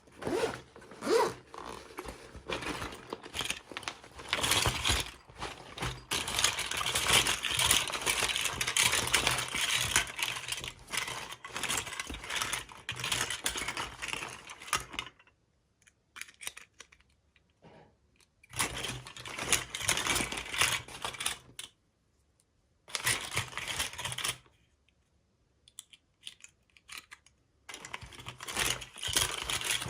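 Toy packaging and small plastic doll pieces being handled during an unboxing: rustling with sharp clicks and taps. It is continuous for about fifteen seconds, then comes in short stretches with brief silent pauses between them.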